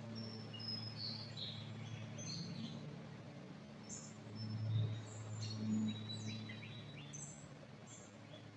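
Small forest birds chirping and whistling, many short high calls from more than one bird, over a steady low hum that swells briefly twice midway.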